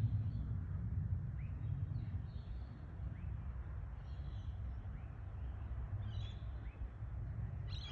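A low rumble in the sky, loudest at first and slowly fading, of unknown origin and doubted to be a plane. Small birds chirp over it with short rising calls about once a second.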